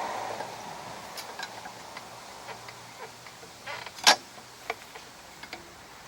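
Hand tools clicking against metal mower-engine parts during flywheel removal, with one sharp, loud metallic clank about four seconds in.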